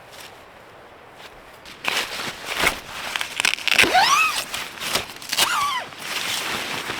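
Faint steady hiss, then about two seconds in, loud close rustling and crunching with sharp clicks, as of gear being handled or footsteps, broken by two short squeaks that rise and bend in pitch.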